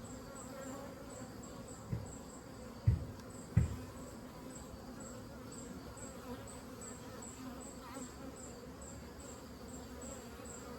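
Honeybees buzzing around an open hive, a steady hum at wingbeat pitch. Two short low thumps come about three seconds in.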